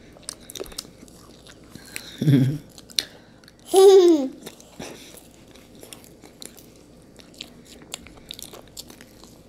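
Close-up mouth sounds of people chewing sugar-coated marshmallow Peeps: soft chewing with many small sticky clicks and lip smacks. A low hummed "mm" comes about two seconds in, and a louder, higher hum that falls in pitch about four seconds in.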